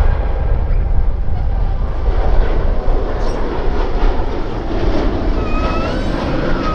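Jet airliner engine noise: a loud, steady rush, with a high whine coming in about five seconds in.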